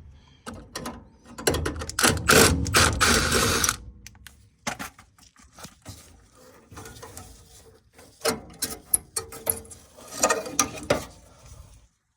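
Rapid mechanical clicking and metal rattling from hand tools working on a gas furnace's igniter mount. It comes in two loud stretches, about two seconds in and again about eight seconds in, with lighter clicking between.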